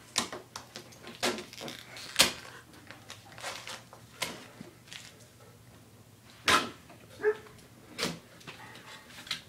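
Cardboard box being opened and handled by hand: a string of irregular sharp knocks, scrapes and rustles from the flaps and packing. The loudest are about two seconds in and at about six and a half seconds.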